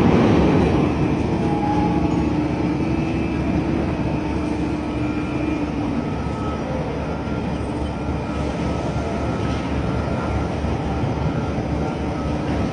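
Cargo-handling machinery aboard a cargo ship running steadily during discharging, a continuous rumble with faint whining tones. It is loudest in the first second, then evens out.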